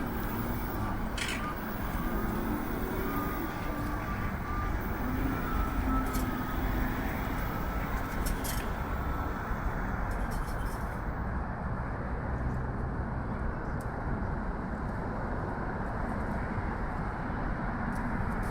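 Steady rumble of road traffic, a constant wash of passing cars with no single vehicle standing out.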